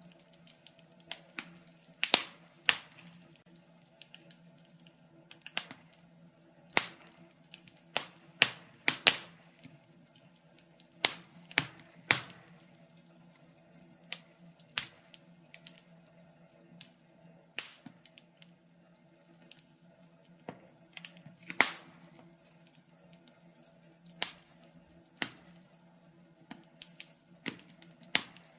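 Wood fire in a fireplace crackling, with irregular sharp pops and snaps, some close together, over a faint steady hum.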